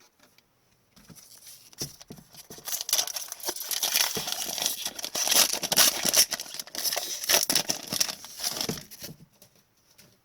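Card pack wrapper being torn open and crinkled by hand: a dense crackling that starts about a second in, is loudest in the middle and fades out near the end.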